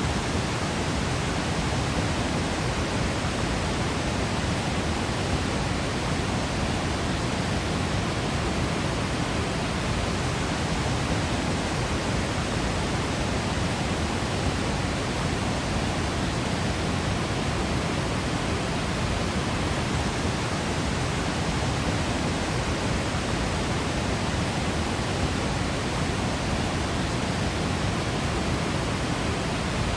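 Waterfall rushing in a steady, unbroken roar of falling water, even from deep rumble to high hiss with no separate splashes.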